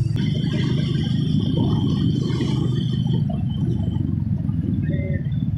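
Motorcycle riding along at road speed: a steady low engine and road rumble, with a thin high tone over it for the first three seconds.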